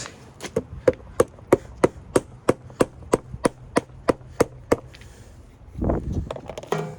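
A quick run of about fourteen sharp, evenly spaced knocks, roughly three a second, like hammer blows, stopping a little before five seconds in. A short low rumble follows near the end.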